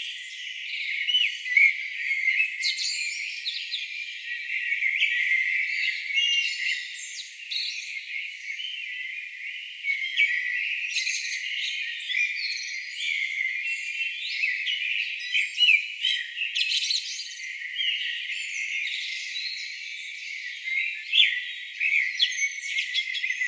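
Many songbirds singing at once, a dense, busy mix of overlapping chirps, trills and whistles. Everything below the birds' own pitch range is filtered out, so the sound is thin and high.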